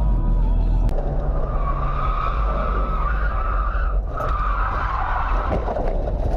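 Car tyres squealing in a skid for a few seconds, starting about two seconds in, over a steady low rumble of engine and road noise.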